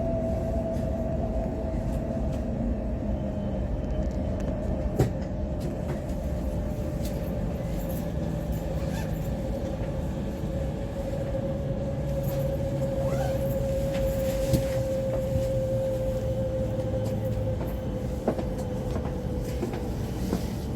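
Cabin noise of an E5 series Shinkansen running on the line: a steady rumble with a hum that slowly falls in pitch, and a few brief sharp clicks.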